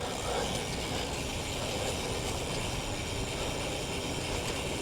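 Steady rushing noise of riding a bicycle: wind over the microphone and tyre noise, even and unbroken.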